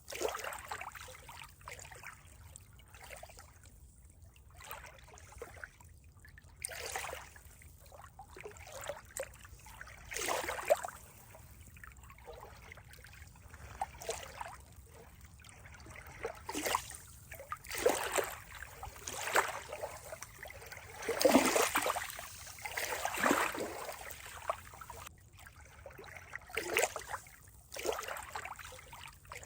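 Water trickling and gurgling in uneven splashes that come and go every second or two, the strongest cluster a little past the middle.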